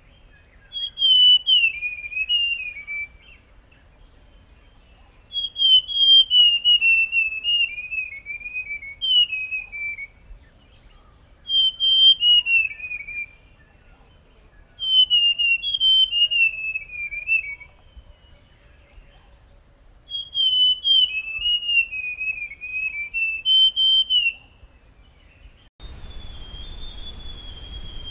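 Forest scrub-robin (buff-brown scrub-robin) singing: about six phrases of clear whistled notes that step up and down and fall in pitch, a few seconds apart. A steady high insect trill runs underneath. Near the end the recording turns noisier, with a softer phrase of the same song.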